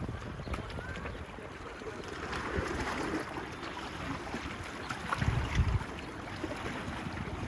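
Small waves washing on a beach, with wind buffeting the microphone in low rumbling gusts, the strongest about five seconds in.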